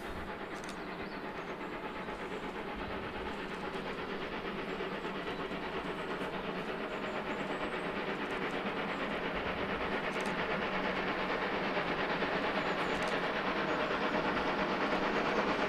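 A steady droning, clattering noise with a faint pitched hum in it, growing slowly louder.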